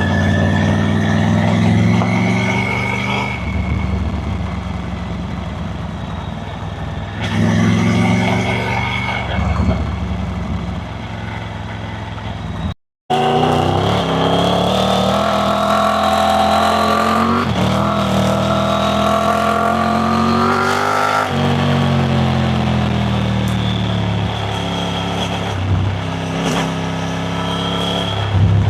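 Triumph Tiger 900 Rally Pro's three-cylinder engine pulling under way. Its pitch climbs as it accelerates and drops sharply at each gear change, two of them in the second half. The sound cuts out completely for a split second about halfway through.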